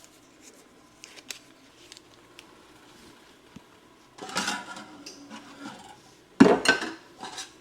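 Kitchen handling noises: a few light ticks and taps, then a stretch of rubbing and scraping, and a sharp knock of cookware on the stovetop or counter, the loudest sound here.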